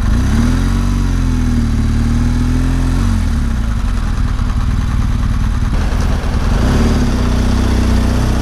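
BMW R1200GS Adventure's boxer-twin engine running at low, fairly steady revs as the motorcycle rolls slowly up to a toll booth, with a slight dip in pitch about a second in and a change near three seconds.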